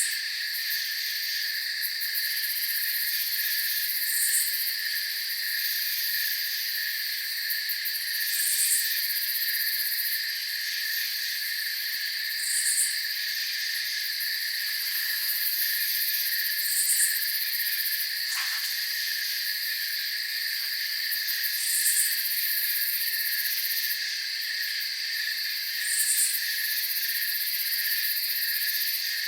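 Night-time cricket chorus trilling steadily, with a short higher chirp repeating about every four seconds.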